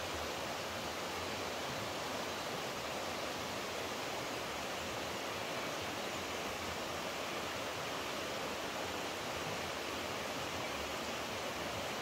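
Steady rushing of flowing water, like a stream or small waterfall, running evenly without a break.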